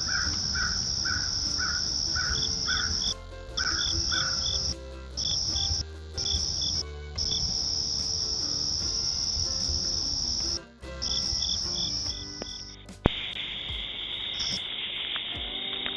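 Night insects calling: a high, steady trill broken by short pauses, with a lower chirp repeating about twice a second for the first few seconds. About thirteen seconds in there is a click, and the sound switches abruptly to a steady hiss.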